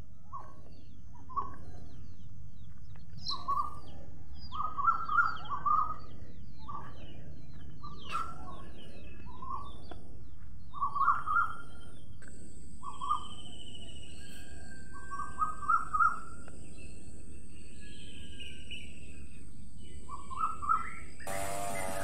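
A bird calling in short notes, some single and some in quick runs of three or four, every second or two, over steady background noise, with fainter higher chirps from other birds. A steady high hiss joins about halfway through, and near the end the sound cuts to a buzzing hum.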